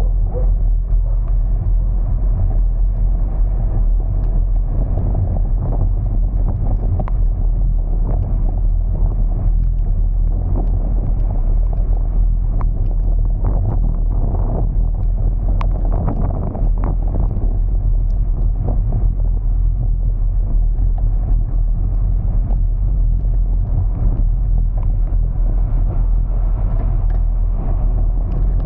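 Steady low rumble of a car in motion, with scattered light ticks and clicks over it.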